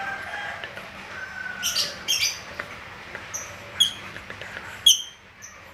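Lovebirds giving short, sharp, high-pitched chirps, several spaced over a few seconds, with a faint low hum underneath.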